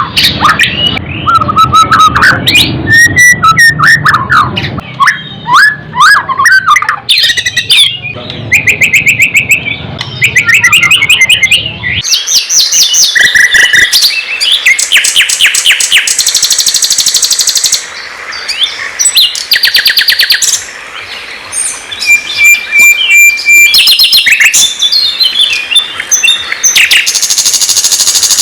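White-rumped shama (murai batu) singing loudly, a varied run of whistles, rapid trills and repeated sharp notes with short gaps. A low hum underneath cuts off abruptly about twelve seconds in.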